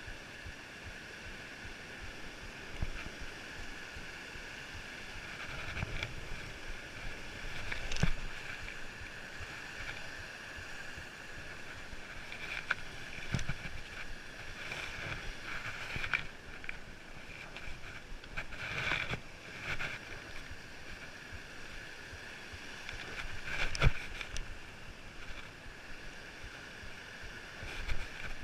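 Hikers' footsteps and scuffs on a rocky uphill trail, with scattered knocks, over a steady high-pitched drone.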